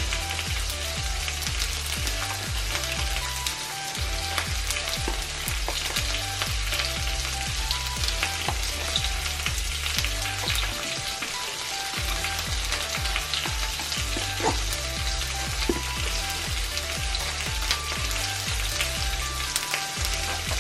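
Raw chicken chunks sizzling in a hot nonstick frying pan as they are laid in one at a time with tongs, with scattered light clicks of the tongs against the pan. Background music with a steady stepping bass line plays underneath.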